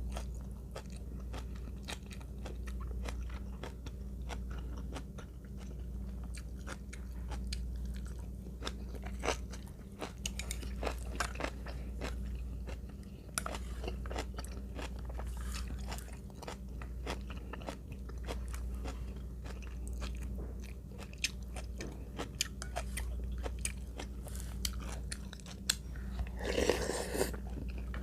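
Close-miked chewing and crunching of food, with many small crisp clicks throughout and a louder, noisier burst near the end, over a steady low hum.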